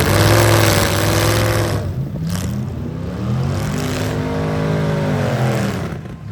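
V8 demolition derby car engines revving hard, their pitch rising and falling over a loud, rough din; one long rev climbs in the second half and dies away near the end.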